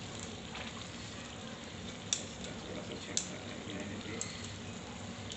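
Chicken and softened tomatoes frying in oil in a karahi, with a few sharp clicks of a spoon against the pan about a second apart as the tomatoes are mashed and stirred.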